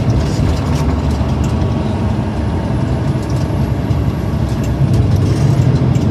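Steady road and engine rumble heard from inside a moving car's cabin, with a few faint ticks.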